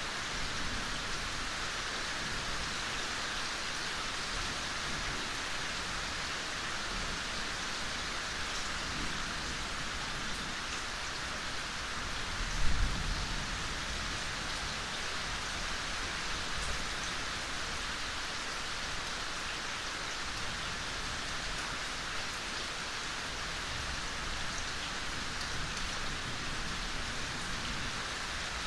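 Steady soft rain falling, an even hiss of many drops, with a single low thump a little under halfway through.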